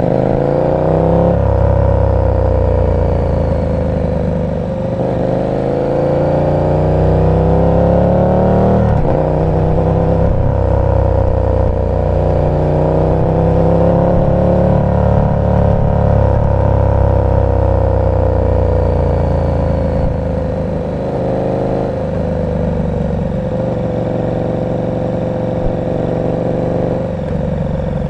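KTM 1290 Super Duke R V-twin engine with an aftermarket exhaust, riding in traffic: it revs up and shifts several times, pitch climbing and dropping, then settles to lower, steadier running near the end.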